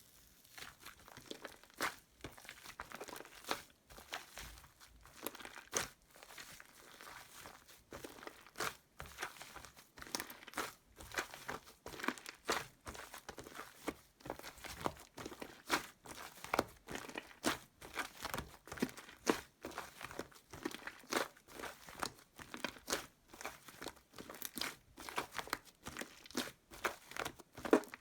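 Slime worked by hand, giving a dense, irregular run of sticky crackles and pops.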